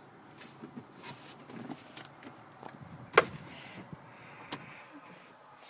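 Faint handling noises in a car's cabin: light rustling and knocks, with one sharp click about three seconds in and a smaller click about four and a half seconds in.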